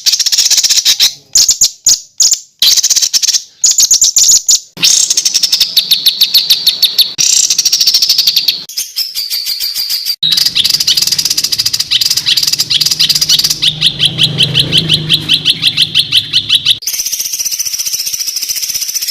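Songbird master-song recording (masteran) for tutoring caged birds: loud, fast trills of rapidly repeated high notes and harsh rattling bursts. Several different song segments are spliced together, changing abruptly about 9, 10 and 17 seconds in.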